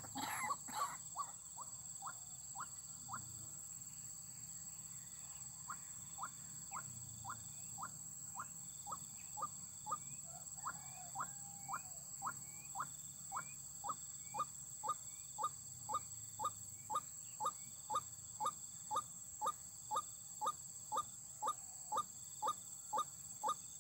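A monotonous run of short, squeaky call notes, about two a second, that grow louder after the first few seconds. This is the waterhen-style calling used to lure white-breasted waterhens into the snares.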